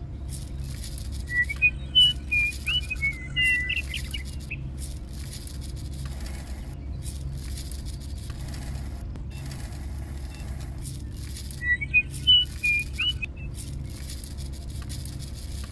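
Small birds chirping and whistling in two short bursts of quick, high chirps, one a little after the start and one about twelve seconds in, over a steady low hum.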